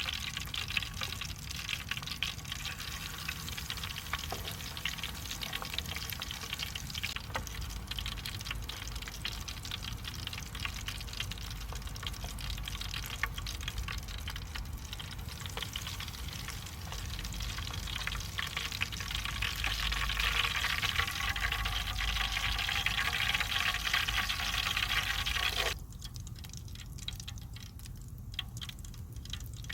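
Food frying in a pan, a dense steady sizzle that grows louder about two-thirds of the way through and cuts off suddenly near the end.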